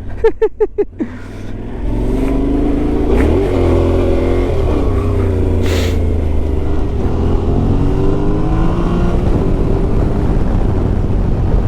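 Yamaha Ténéré 700's parallel-twin engine under way, its revs rising and falling a few times as it pulls through the gears, with a steady low din of engine and road noise.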